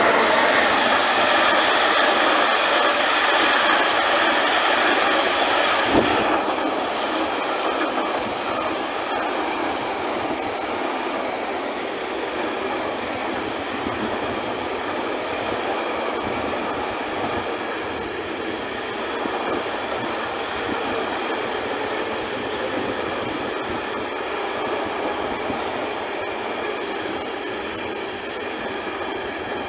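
A Siemens Vectron locomotive and a long container freight train pass close by: a loud steady rush of wheels on rail, loudest as the locomotive goes by in the first few seconds. A sharp knock comes about six seconds in, then the loaded container wagons keep rolling past steadily.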